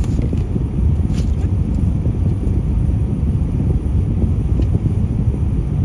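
Steady low rumble of a vehicle engine running, with a few faint light clicks.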